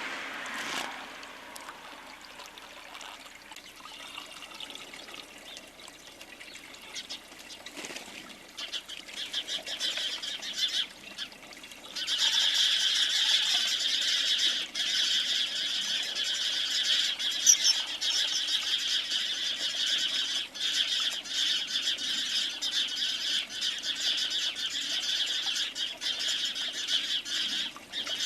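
Small birds chirping, with wing flutters and small knocks. About twelve seconds in, a dense, steady chorus of high chirping sets in suddenly and gets much louder.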